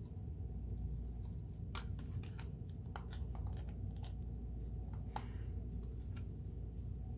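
Light, scattered clicks and rattles from handling the metal parts of a sewing machine, with a short hiss about five seconds in, over a steady low hum.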